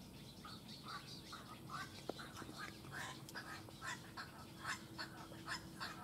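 Birds in a heron nesting colony calling: a rapid run of short repeated calls, about three or four a second, growing denser and louder from about halfway through, over a faint steady hum.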